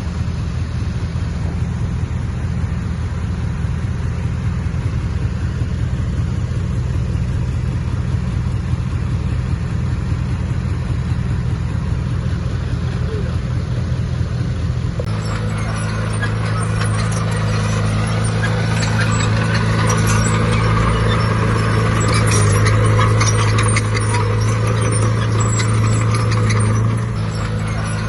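Heavy diesel earthmoving machine running steadily. About halfway through the engine comes under load and gets louder, with a clanking rattle over it, then eases off near the end.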